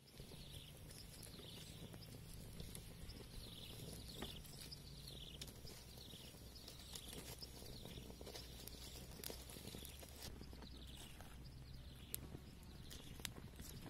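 Faint outdoor ambience: a bird gives a short, high, falling chirp about once a second, over a low steady rumble. A few sharp clicks come from the twig fire crackling.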